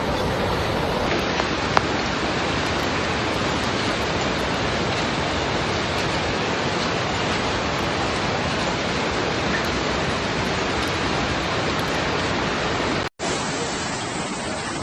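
Steady rush of fast-flowing floodwater, an even roar without a break, cutting out for an instant about thirteen seconds in before a similar rush resumes.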